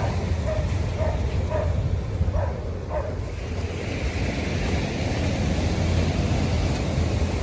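Wind buffeting the microphone over the steady wash of beach surf.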